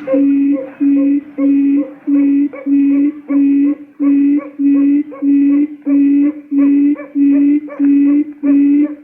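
Quail lure call played back on a loop: short, identical low notes repeated evenly, about two a second.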